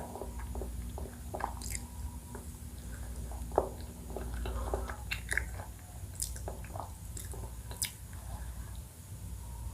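Close-miked eating of ice cream and cream cake: soft wet chewing and mouth smacks with scattered sharp clicks.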